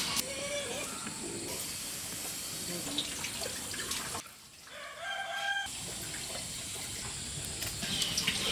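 Chickens clucking and calling over a steady hiss of running water, with a clearer pitched call about five seconds in.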